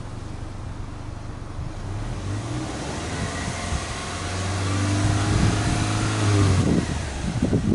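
Subaru Legacy Touring Wagon 2.5GT's turbocharged 2.5-litre flat-four engine heard at its twin exhausts, idling and then revved in neutral. The note climbs from about two seconds in, holds high and louder for a couple of seconds, then falls away near the end.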